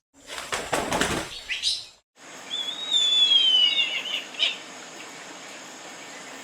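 A bird's wings flapping in a quick flurry, then, after a short break, a bird calling with a few high whistled notes that glide downward.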